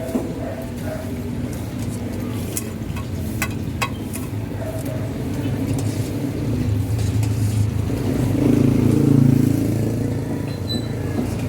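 A motor vehicle engine running steadily, growing louder about eight seconds in and easing off near the end, with a few sharp clicks around three to four seconds in.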